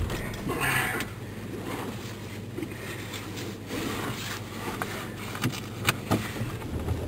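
A vehicle's engine runs steadily in the cabin. There is a rustling scrape about half a second in and a few sharp clicks and knocks near the end.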